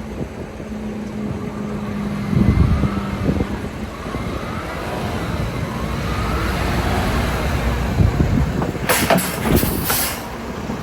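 2010 International ProStar semi truck running and driving, with a whine that glides in pitch in the middle. A few sharp noisy bursts come near the end.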